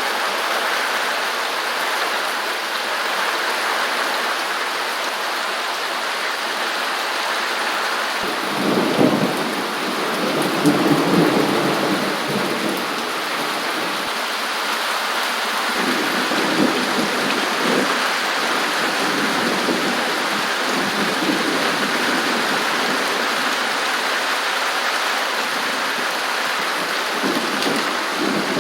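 Steady rain falling on a zinc roof, with low rumbles of thunder rolling in about a third of the way through and again a little later.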